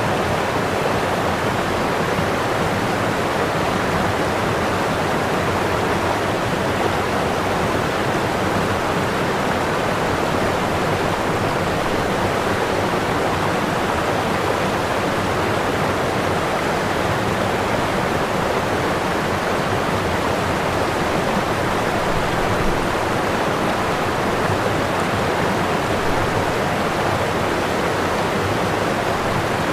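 Waterfall: whitewater pouring over the falls in a steady, unbroken rush.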